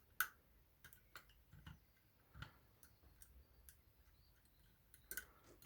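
Faint, irregular clicks of lock picking tools working the levers inside a Union 3G110 five-lever lock, with a sharper click near the start and a few quick ones near the end.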